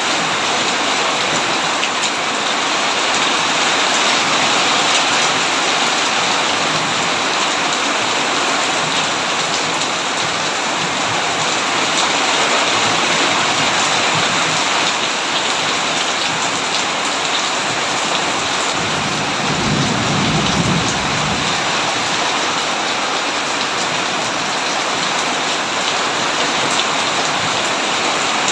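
Heavy rain falling steadily on a tin roof, with one low rumble of thunder about two-thirds of the way through.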